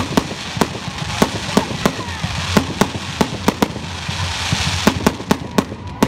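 Fireworks display: a rapid, irregular barrage of sharp bangs, about two or three a second, over a steady hiss that swells briefly about four seconds in.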